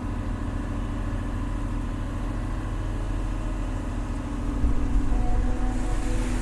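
Large excavator's diesel engine running steadily, getting louder about four and a half seconds in as it takes on more load.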